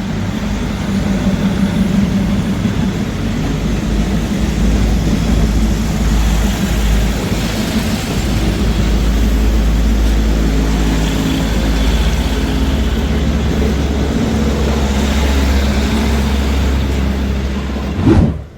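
Diesel train engine running loud and steady with a deep hum. It swells briefly near the end, then cuts off suddenly.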